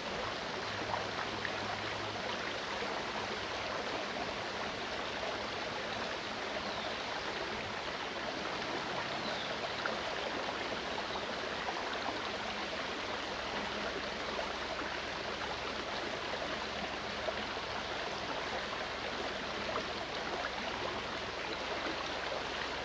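Clear mountain stream running steadily over rocks, an even rushing babble of water.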